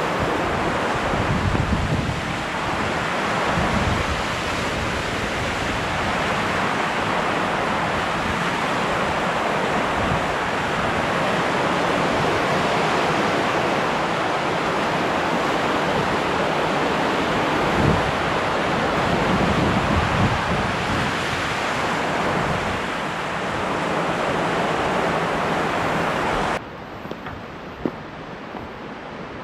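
Steady rush of a large waterfall and fast river: loud, dense water noise with wind gusts buffeting the microphone now and then. Near the end it drops suddenly to a quieter rush.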